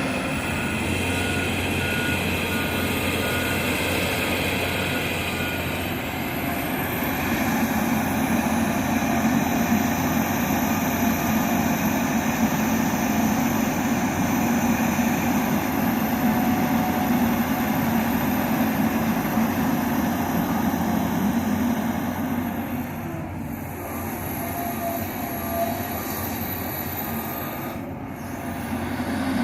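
John Deere 350G LC hydraulic excavator running steadily under load as it digs, its diesel engine and hydraulics droning continuously. The level dips briefly twice near the end.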